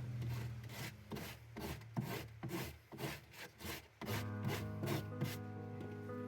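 Hand sanding with fine sandpaper on a filled patch of a fridge's plastic inner wall: quick back-and-forth rubbing strokes, about three a second, that stop near the end, over background music.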